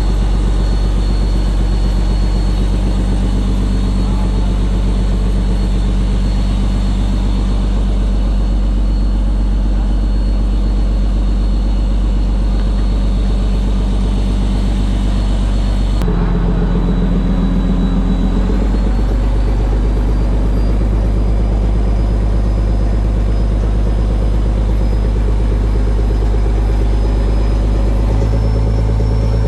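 Fishing boat's engine running steadily and loudly. About halfway through the sound changes abruptly, and the engine's pitch then creeps slowly up.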